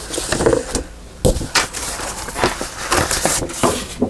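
Paper rustling and crinkling as sheets and card pieces are handled and shuffled, with irregular taps and a sharper knock a little over a second in.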